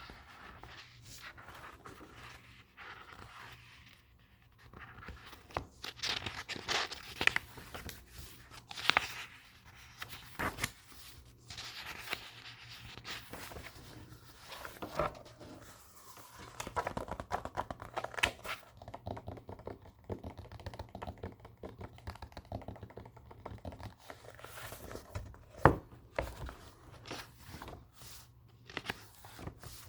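Close-up book handling: paper pages turning and rustling, with crisp swishes and light taps and scrapes at an irregular pace, and a sharper tap near the end.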